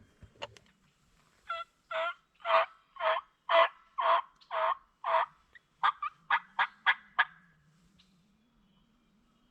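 Turkey yelping: a run of about eight loud, evenly spaced yelps, roughly two a second, then a quicker string of about six shorter notes. A single sharp click comes just before the calling.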